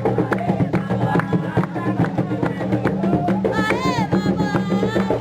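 Candomblé ritual percussion: atabaque hand drums and a struck bell or wood-like instrument keeping a fast, steady rhythm. A shrill cry rises and falls about four seconds in.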